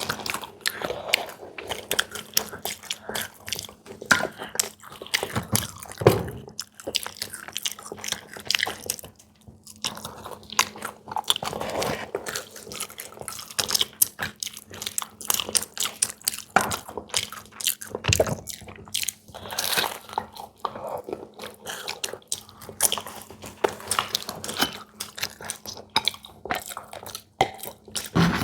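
Close-miked eating sounds: biting and chewing crisp fried snacks, a dense, irregular run of crunching clicks.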